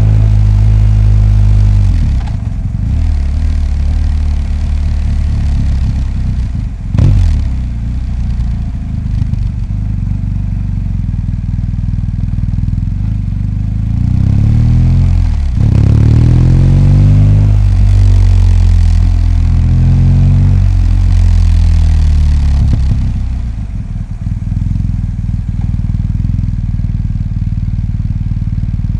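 BMW R 1250 GS boxer twin engine running while ridden in traffic: the engine speed rises and falls through gear changes, with a sharp short rev about seven seconds in. It settles to lower, steadier running near the end.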